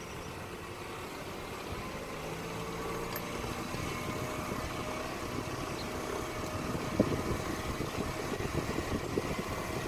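A vehicle engine running steadily, with a single sharp knock about seven seconds in.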